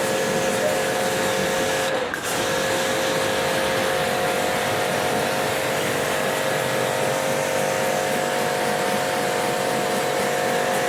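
A small electric motor running with a steady whine over a hiss, cutting out briefly about two seconds in and then starting again.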